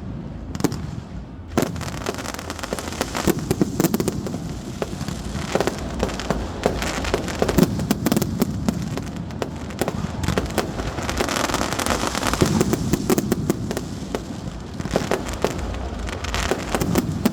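Many sharp, irregular pops and crackles over a steady low rumble at a huge São João bonfire.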